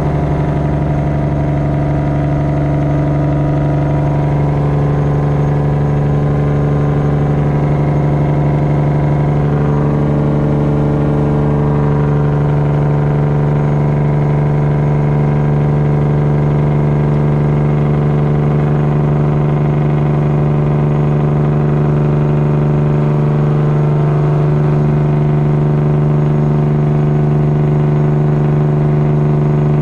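Straight-piped Detroit diesel engine of a semi truck running steadily under way, holding an even pitch with a slight waver about a third of the way in.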